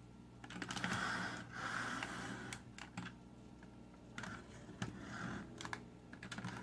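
Hard plastic toy robot parts being handled, with scattered sharp clicks and rattles as pieces are fitted and adjusted.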